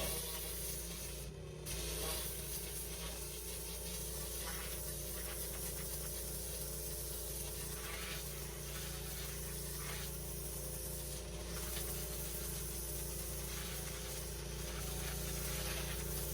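Pressure washer running steadily, its high-pressure water jet hissing against patio slabs as it blasts out the old pointing between them, with a brief drop about a second and a half in.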